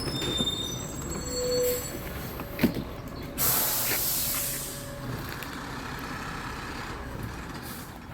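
Garbage truck engine running with brief high-pitched brake squeals in the first two seconds and a sharp knock, then a loud air hiss about three and a half seconds in lasting over a second: the air brakes releasing.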